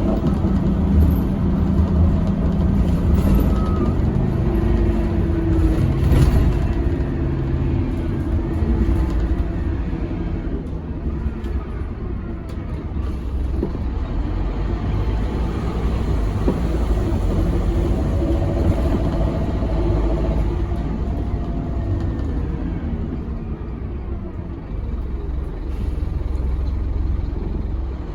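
Scania K270UB6 bus's diesel engine running under way with a steady low rumble, its note rising and falling as the bus drives.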